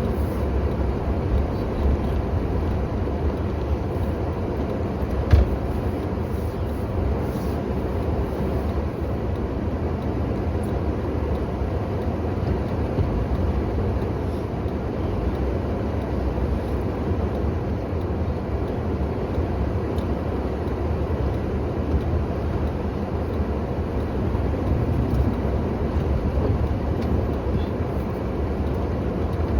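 An engine running steadily with a low rumble, and a single sharp knock about five seconds in.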